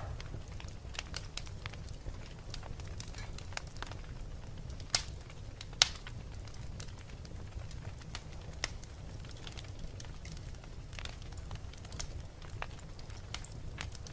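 Fire burning in a fireplace, crackling steadily over a low rumble with scattered sharp pops. Two pops stand out loudest near the middle.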